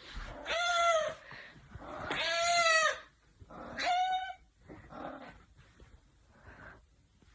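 An animal calling: three drawn-out pitched cries, each rising and falling, followed by a few fainter ones.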